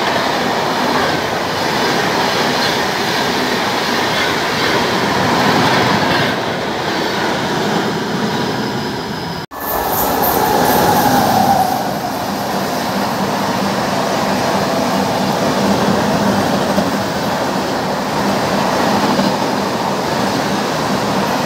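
Indian Railways passenger train of red-and-grey coaches running through a station at speed: a steady loud rush and clatter of wheels on rail. About nine seconds in, the sound cuts abruptly to a second train approaching and passing close by, with a short high tone just after the cut.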